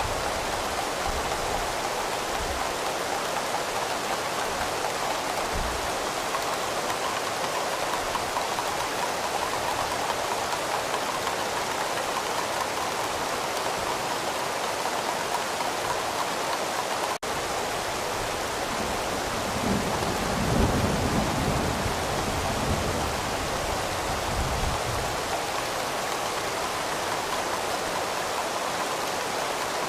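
Steady rain, an even hiss, with a low rumble of thunder rolling in about two-thirds of the way through. There is a momentary break in the sound a little past halfway.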